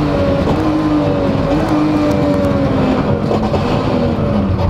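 Rally car engine heard from inside the cockpit, running hard, its note sinking slowly as the revs ease.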